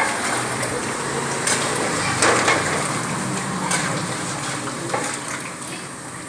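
Food sizzling as it fries in a pan and is stirred, with a few sharp knocks of the spoon against the pan.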